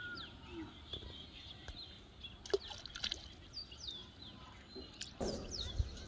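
Outdoor ambience with small birds giving short falling chirps several times, over scattered sharp clicks. Near the end comes a louder, wet-sounding scuff, as of hands working in mud at the water's edge.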